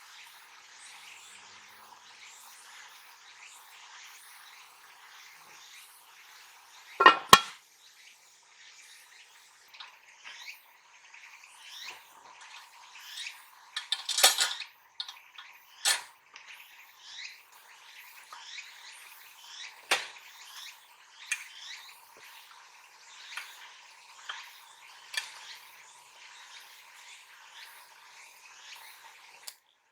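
Metal cookware and utensils clinking and knocking over a steady background hiss, with two sharp clanks about seven seconds in and more knocks scattered through the middle.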